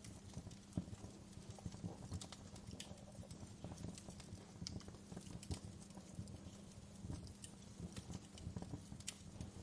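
Wood fire in a fireplace crackling, with irregular sharp pops and snaps of varying loudness over a low steady hum.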